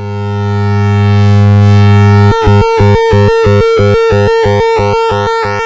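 Nova Drone analog synthesizer sounding a steady low drone that swells in. About two seconds in, the drone breaks into a fast, even pulsing, about five pulses a second.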